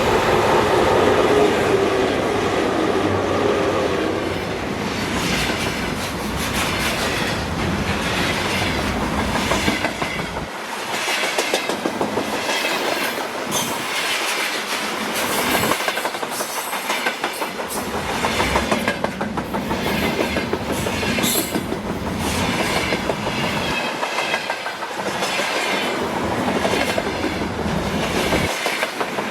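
Freight train passing close by: the wagons' wheels clatter rhythmically over the rail joints above a steady rumble, with a tone that fades over the first few seconds.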